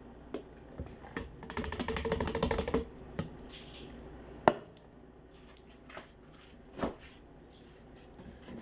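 Clicking and clatter of kitchen items being handled: a rapid rattling run of clicks about a second and a half in, a single sharp knock, the loudest sound, about four and a half seconds in, and a few lighter knocks.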